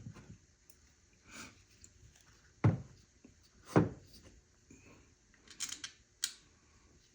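Hand tools and parts being handled during engine work: two sharp knocks, the first about two and three-quarter seconds in and the second about a second later, then a quick run of lighter clicks and a rattle.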